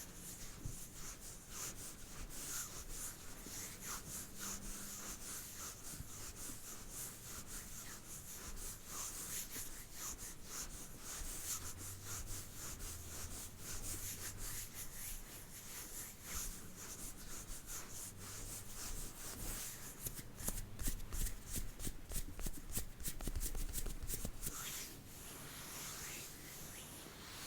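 Close-up rubbing and scratching on a surface, a dense crackle of fine scrapes. It grows busier and louder about three quarters of the way through, then eases off near the end.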